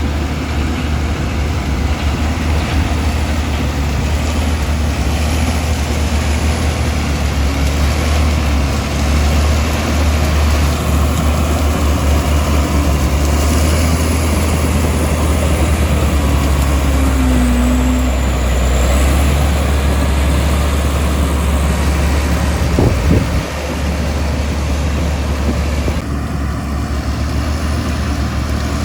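Komatsu D65E bulldozer's diesel engine running steadily with a low drone while it works, with a brief squeal about two-thirds of the way in and a single sharp knock shortly after.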